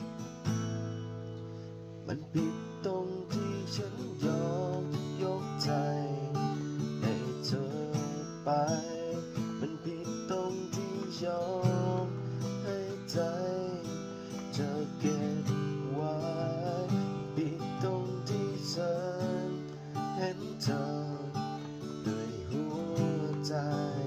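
Acoustic guitar played as a song accompaniment, with chords strummed and picked in a steady rhythm and a melody line above them.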